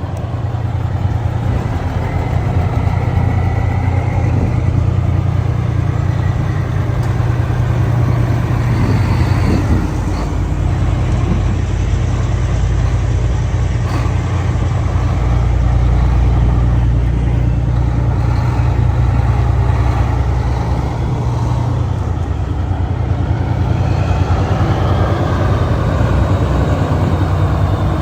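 Vintage truck engine running steadily as the truck drives by, with a rising whine in the last few seconds.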